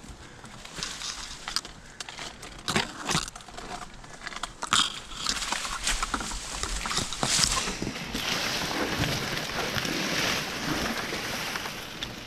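Dry queen palm fronds crackling and snapping as they are worked, a run of sharp cracks followed by several seconds of steady dry rustling and rasping.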